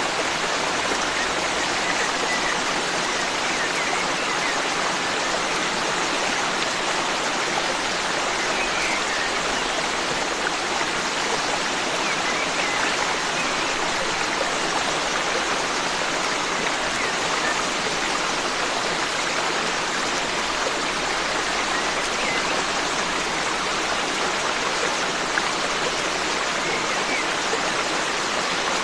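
Forest stream flowing in a steady, even rush of water, with a few faint, brief bird chirps now and then.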